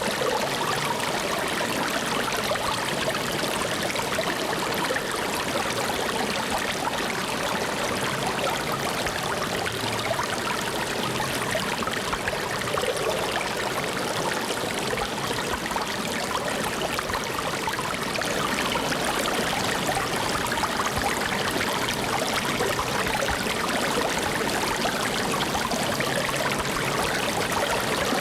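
Flowing water running steadily, a continuous even rush with no breaks or changes.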